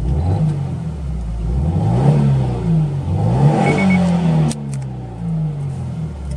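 Subaru WRX STI's turbocharged EJ20 flat-four, fitted with an HKS aftermarket exhaust, being revved in several blips while standing: the pitch climbs and falls, holds high briefly then drops suddenly about halfway through, followed by a few smaller blips back toward idle.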